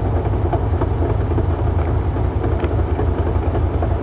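2006 Mustang GT's 4.6-litre V8 idling steadily in neutral with the car stationary, carrying a noise the owner suspects comes from the Tremec 3650 manual transmission, which two Ford dealers call normal.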